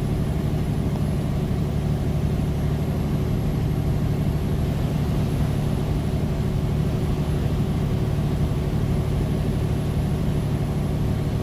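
Semi-truck's diesel engine droning steadily in the cab under light throttle on a snowy climb.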